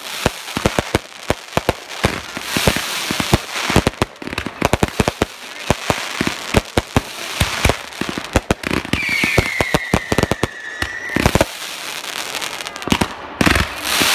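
Fireworks display going off in rapid bangs and crackling throughout, with a single whistle that falls in pitch and then holds, about nine seconds in, for some two seconds.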